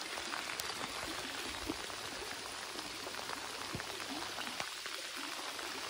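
Heavy rain falling steadily: an even hiss scattered with the small ticks of individual drops hitting close by.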